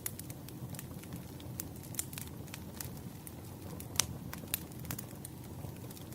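Wood fire crackling: irregular sharp pops and snaps over a steady low rumble, the loudest pop about four seconds in.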